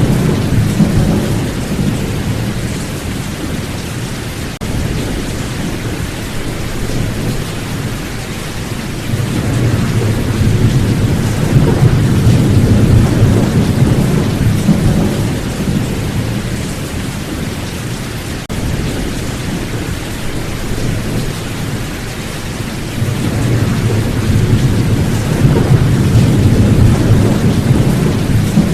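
Steady rain falling during a thunderstorm, with low rolling thunder. The rumbles swell and fade three times: at the start, through the middle, and near the end.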